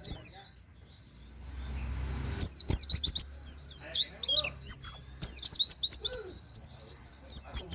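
White-eye (pleci) singing a fast run of high chirps and downward-sweeping notes. A short lull with only a faint thin note comes first, and the dense song starts about two and a half seconds in.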